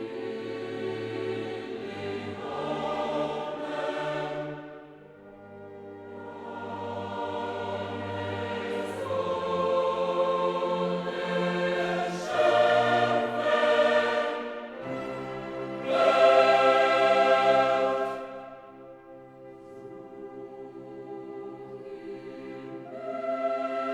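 Choral music: a choir singing long sustained chords over orchestral accompaniment, swelling and fading in phrases, loudest about two-thirds of the way through.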